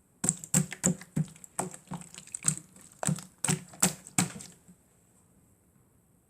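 Slime being squeezed and poked by hand, giving a quick run of about a dozen sharp clicking pops over four seconds, then stopping.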